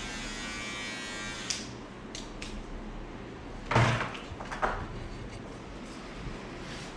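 Electric hair clippers running with a steady buzz, switched off with a click about a second and a half in. After that come a few light clicks and two louder clunks, like tools being handled and set down.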